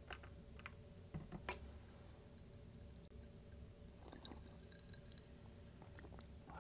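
Faint chewing of a chicken bowl close to the microphone, with a few soft wet mouth clicks and squishes over a low steady hum.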